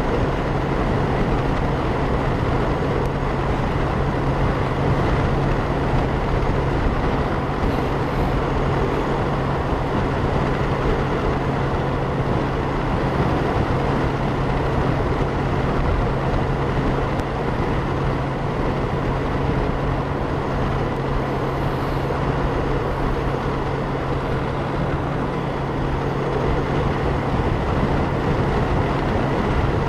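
Wind rushing over a helmet-mounted camera's microphone, with the steady drone of a 2012 Honda Gold Wing's flat-six engine and road noise at a constant speed.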